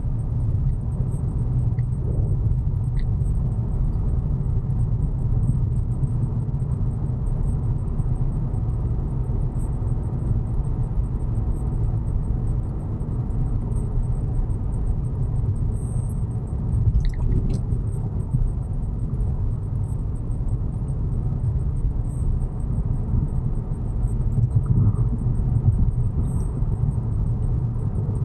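Steady low rumble of a Volkswagen Jetta Mk6 in motion.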